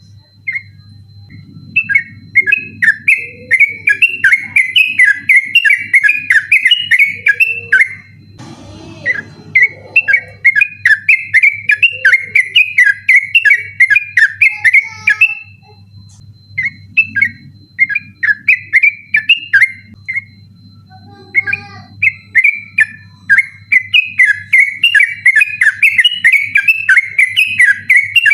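Yellow-vented bulbul (trucukan) singing its rapid rolling 'ropel' song: long runs of quick, chattering whistled notes, broken by short pauses about 8, 16 and 21 seconds in. A steady low hum runs underneath.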